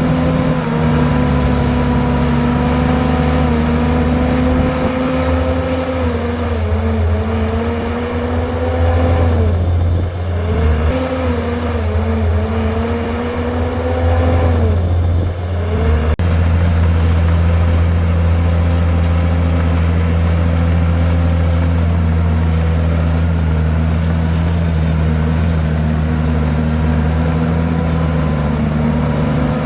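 Komatsu bulldozer's diesel engine running steadily with a deep hum; its pitch sags twice, about ten and fifteen seconds in, and picks back up each time.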